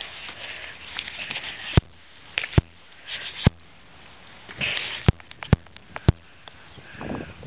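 Young pigeons moving about and taking wing: irregular sharp knocks, about seven of them, with short rustling whooshes in between.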